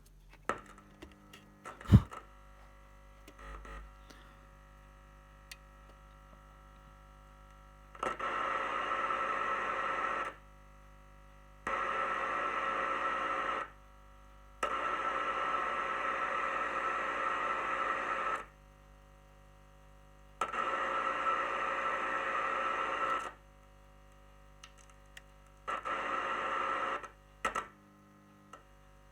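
Car stereo speaker driven by its TDA7388 amplifier IC, giving out bursts of hiss with a steady hum that cut in and out five times as the IC's sound-input capacitors are touched: sound coming through means that amplifier input is passing signal. A sharp click about two seconds in.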